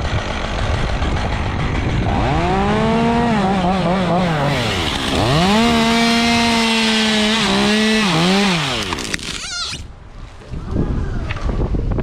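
Chainsaw revving up and cutting through the tree's top, its engine pitch wavering and dipping under load, then stopping abruptly about ten seconds in.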